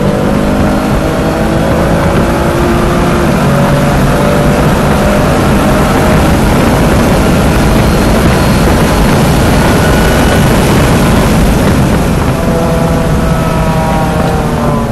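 In-cabin sound of a 2015 BMW M3's twin-turbo straight-six with an AWE cat-back exhaust pulling hard at full throttle past 140 mph. The engine note is mixed with heavy wind and tyre noise. Near the end the car slows hard.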